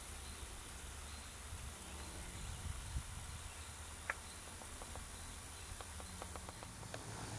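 Faint outdoor background: a low rumble and a steady thin high-pitched whine, with a few small clicks scattered through the middle and near the end.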